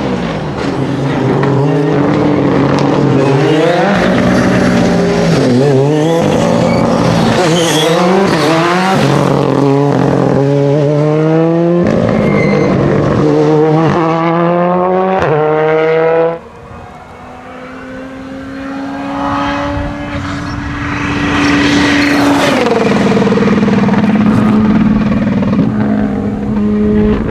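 Rally car engine revving hard and climbing through the gears, its note rising and dropping sharply with each shift. After a sudden cut, a second rally car approaches at speed and passes, its engine note dropping as it goes by.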